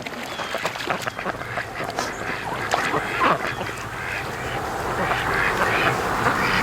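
A flock of domestic Pekin ducks quacking on the water, many short calls overlapping, with wind noise rising toward the end.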